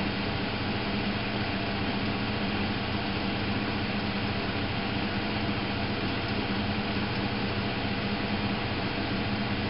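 Miele Novotronic W830 washing machine running, a steady motor hum with even noise that does not pause or change.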